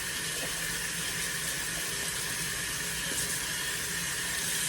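Kitchen sink faucet running steadily, water splashing over hands being washed.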